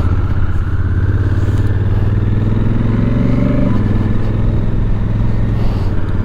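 Honda Africa Twin's 998 cc parallel-twin engine running under way, its pitch building briefly and then dropping abruptly about four seconds in before it carries on steadily.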